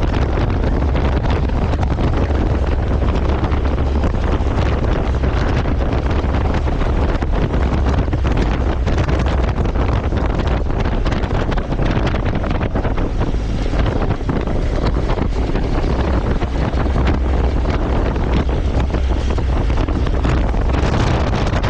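Steady, loud wind rush buffeting the microphone of a camera riding on a moving motorcycle, with a deep rumble underneath.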